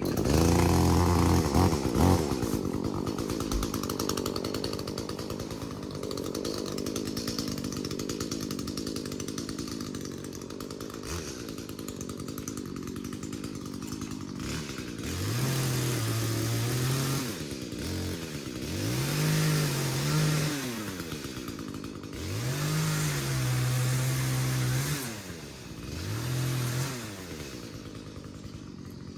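Two-stroke chainsaw starting abruptly and running, then revved up four times in the second half, each time rising in pitch, holding for a second or two, and dropping back.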